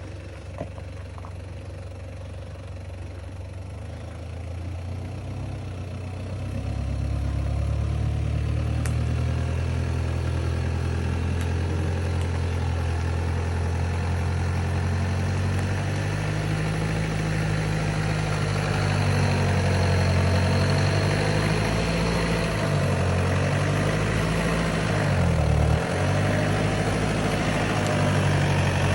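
Vehicle engine running while driving, getting louder about six seconds in, with its pitch dipping and rising several times in the second half as the engine speed changes.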